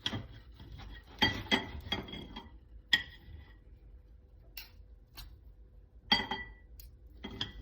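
Metal cutlery clinking against a dish, a string of short ringing clinks with quiet gaps between them, as a piece of baked apple is cut and scooped.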